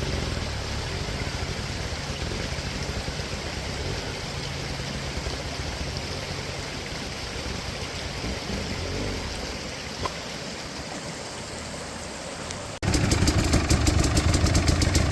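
Dirt bike engine under a steady rushing noise, fading away over the first several seconds. Near the end the sound cuts abruptly to a dirt bike engine running loud and close, firing evenly.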